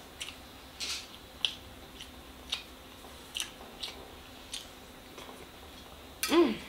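Close-up mouth sounds of someone eating grilled lamb and rice: wet chewing and lip smacks, short clicks every half second to a second. Near the end comes a short hummed "mmm", the loudest sound.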